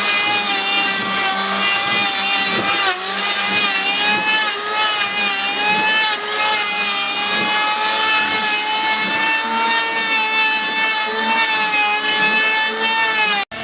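Electric power tool motor running with a steady high-pitched whine, its pitch sagging slightly now and then as it works the wood. The sound cuts off abruptly just before the end.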